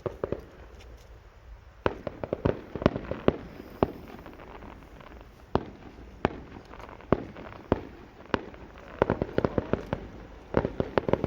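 Fireworks going off: sharp bangs and cracks at irregular intervals, with runs of rapid reports about two seconds in and again near the end.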